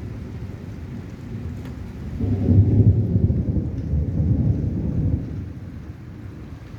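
Thunder rumbling over steady rain: a low roll swells about two seconds in, holds for around three seconds, and dies away.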